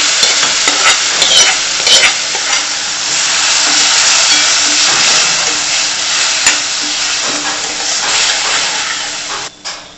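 Wet, freshly washed moong dal sizzling loudly as it is stirred into hot oil and fried onion masala in a steel kadhai. A spoon scrapes and clicks against the steel now and then, and the sizzling dies down near the end.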